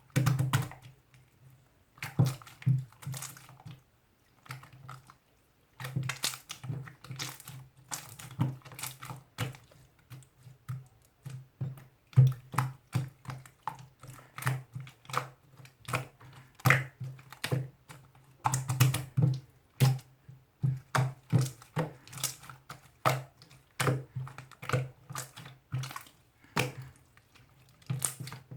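Typing on a computer keyboard: rapid, irregular key clicks in bursts, with a pause of about two seconds early on.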